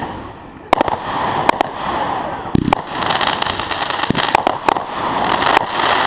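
Consumer fireworks going off: dense crackling with many sharp pops, after a brief lull at the start, and a short lower thump about two and a half seconds in.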